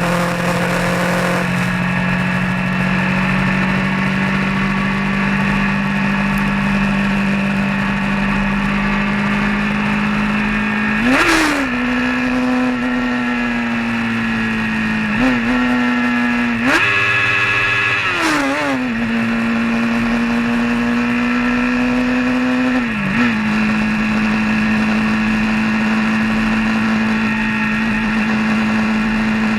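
A vehicle's engine running steadily while driving. Its pitch rises and falls several times about midway as the revs change, with a higher-revving stretch of about a second and a half, then settles back to a steady note.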